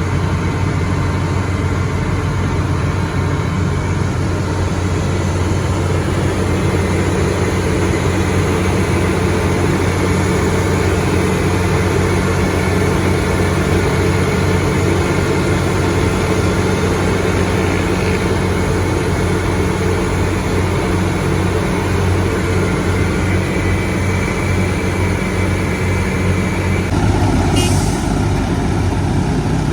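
The engine of heavy road-construction machinery running steadily with a constant low hum. Near the end the sound changes abruptly, and a brief sharp sound follows.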